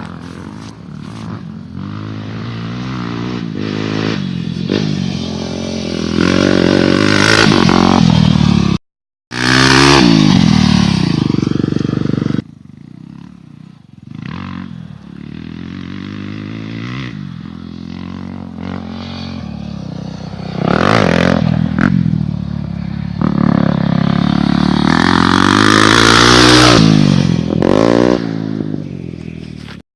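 Motocross bike engine revving hard under load, its pitch climbing and dropping again and again as the rider opens and closes the throttle and shifts gear. The sound cuts out briefly about nine seconds in.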